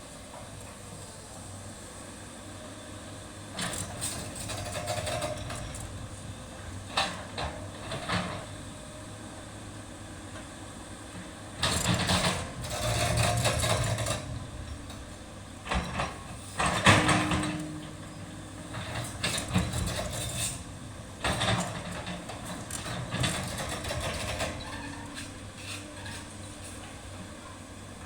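Sany excavator's diesel engine running steadily with a low hum, broken by repeated louder spells of noise a second or two long as the machine works.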